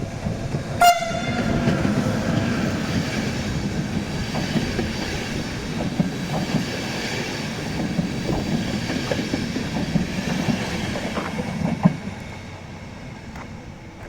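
Freight train passing through a station. There is a short horn toot about a second in, then a steady rumble with the wheels clacking over rail joints, which fades away near the end.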